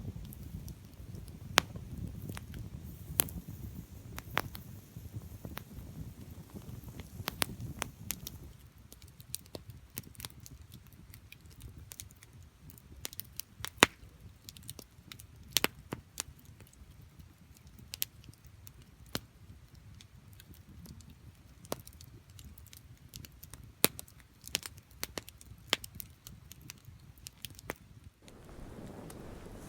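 Wood fire burning on the bare ground, crackling with sharp pops scattered irregularly throughout. For the first third a low rush of flame sits under the pops; then it drops away suddenly and only the sparse pops and snaps remain.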